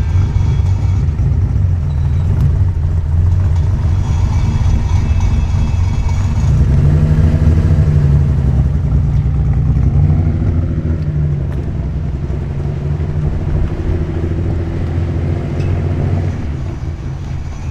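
Nissan Skyline C10 'Hakosuka' with Solex carburettors, tubular headers and a dual exhaust through a Trust 50 mm muffler, driving with a deep, loud exhaust rumble. It is loudest about seven to ten seconds in, then eases off somewhat.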